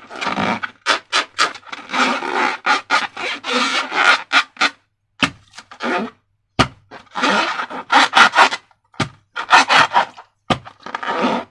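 Slime being squeezed and worked by hand in a series of short, crackly, sticky bursts with brief gaps between them. There is one sharp click about six and a half seconds in.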